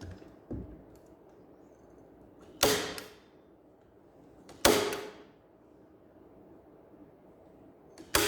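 Pneumatic upholstery staple gun firing three single shots, each a sharp crack with a short hiss of air after it, spaced about two and then three and a half seconds apart, with a faint knock just before.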